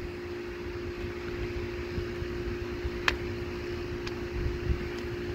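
Steady machine hum with one even tone and a low rumble, like a fan or air-conditioning unit running. A sharp click about three seconds in and two fainter ticks later, from the wiring work.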